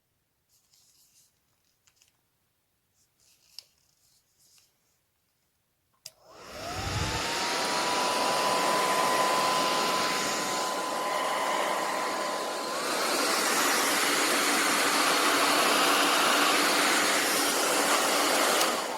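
A few faint handling clicks, then a click as a hand-held hair dryer switches on about six seconds in. Its motor spins up with a rising whine that settles into a steady tone over the rush of air. About two-thirds of the way through it steps up to a louder, higher setting, and it starts to wind down at the very end.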